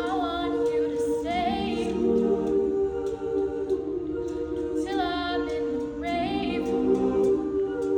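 Choir singing a cappella: sustained chords, with a voice sliding up into short phrases above them, about a second in, again around the middle, and near the end.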